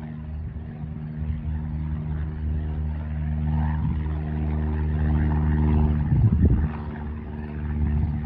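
Light piston-engine airplane's engine and propeller running with a steady drone that grows louder, with gusts of wind on the microphone about six seconds in.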